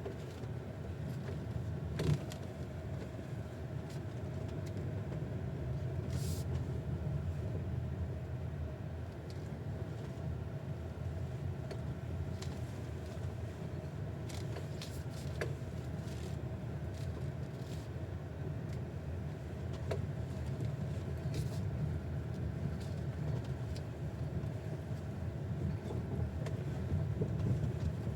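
Cabin road rumble of a GAC GS8 II SUV driving over uneven road, with sharp, clear, ringing knocks from under the steering wheel at irregular moments, the loudest about two seconds in. The knocks appear as the car's weight rolls from side to side over bumps, and their cause is unknown.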